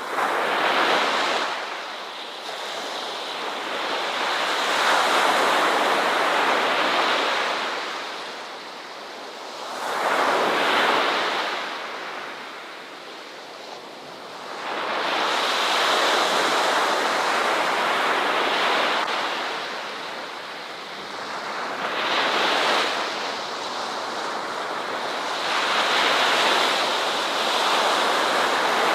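Ocean waves breaking and washing up the shore in slow, repeated surges, each swell rushing in and then drawing back every few seconds.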